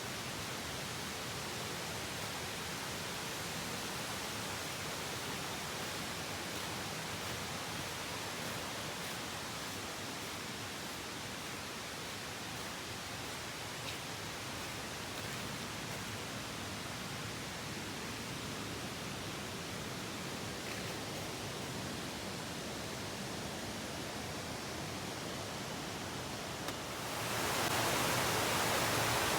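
Steady rushing of a mountain stream, an even hiss of flowing water that swells louder near the end.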